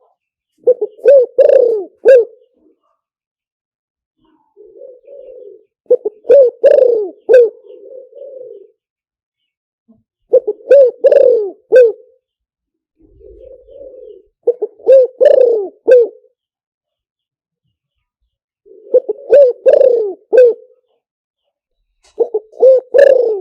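Spotted dove cooing: six loud phrases of several short coos, one roughly every four seconds, with a softer single coo between some of them. It is a recorded call of the kind played through a loudspeaker as a lure for trapping spotted doves.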